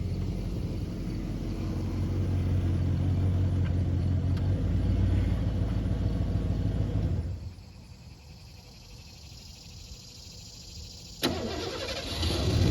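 A fuel-injected 5.0 V8 in a 1989 Ford F-150 pickup runs steadily for about seven seconds. Then its sound drops away suddenly. A sharp click comes about eleven seconds in, and the engine sound comes back louder near the end.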